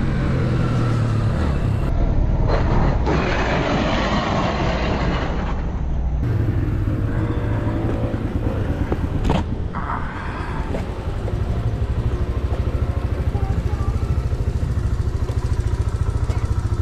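Motorcycle engine running steadily, with wind and road noise.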